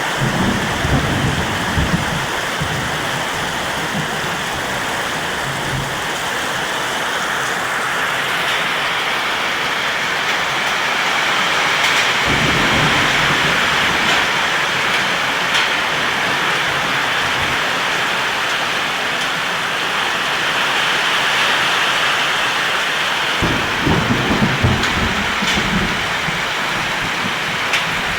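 Heavy rain pouring down steadily in a strong storm, with low rumbles at the start, about twelve seconds in and again near the end.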